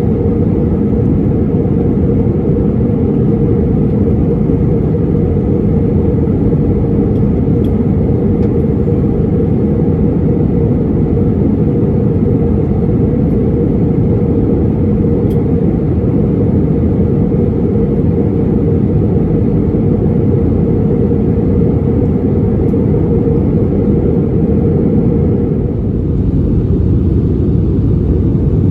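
Airbus A320neo cabin noise during descent: a loud, steady rumble of engines and rushing air heard from a window seat. The higher hiss eases slightly near the end.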